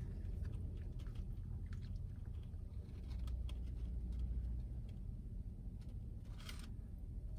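Quiet chewing of a mouthful of coleslaw with scattered small clicks, over a low steady hum in a car cabin.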